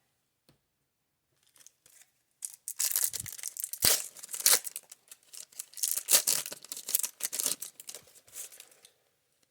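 A baseball card pack wrapper being torn open and crinkled by hand. It starts about two and a half seconds in and runs as a stretch of crackling, ripping noise.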